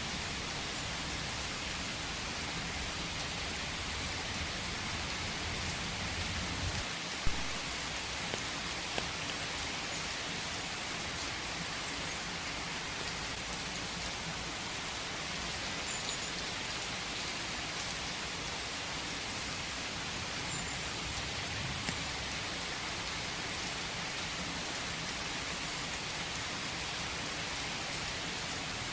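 Steady rain falling in a forest, an even hiss of drops. One sharp tap stands out about a quarter of the way through, with a couple of fainter ticks just after it.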